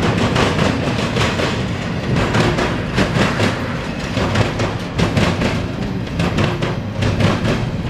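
Freight train's intermodal cars rolling past at trackside. The steel wheels make a steady rumble with a rapid run of clicks and clacks over the rail joints.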